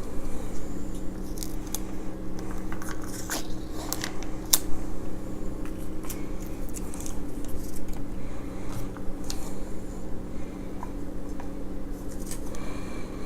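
Close-miked eating sounds: irregular crisp crackles and clicks of food being bitten and chewed, over a steady low hum.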